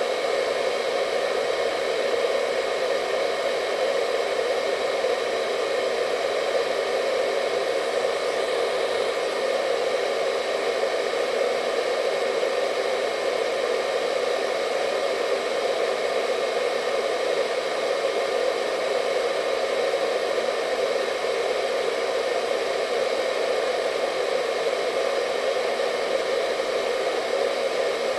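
Hair dryer running steadily, a constant rushing hum of air with a faint whine over it.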